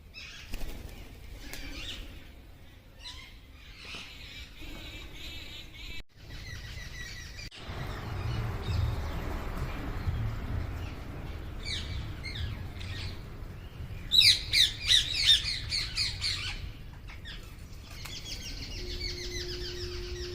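A flock of parrots calling and squawking, with a louder cluster of rapid, harsh squawks about two-thirds of the way through. A low rumble sits under the calls for a few seconds near the middle.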